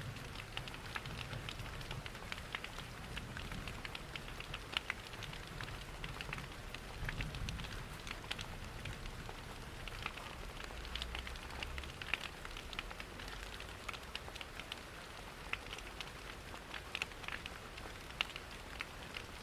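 Rain and a crackling wood fire: many small, sharp ticks and pops over a steady hiss, with a low rumble underneath.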